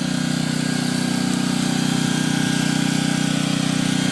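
An engine running steadily at constant speed, an even, low, pulsing hum with no change in pitch.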